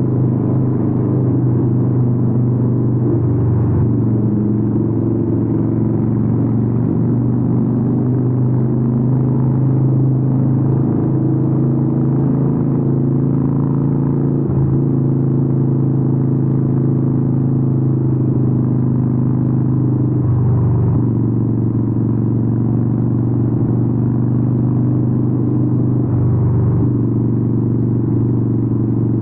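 Harley-Davidson 883N Sportster's air-cooled V-twin running through Vance & Hines exhausts at a steady cruise, a continuous low rumble. The note breaks briefly about four times.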